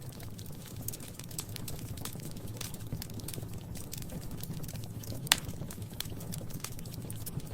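Wood fire crackling in a fireplace: a steady run of small snaps and pops over a low rumble, with one louder pop about five seconds in.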